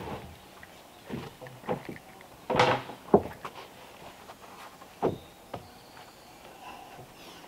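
Irregular knocks and thuds of wooden decking boards being handled and set in place, with one louder clatter about two and a half seconds in and a sharp knock just after.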